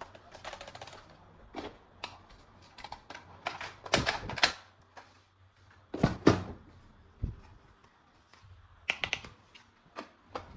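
Hard plastic clicks, rattles and knocks of toy gun parts being handled. There is a short fast rattle near the start and the loudest knocks come about four and six seconds in.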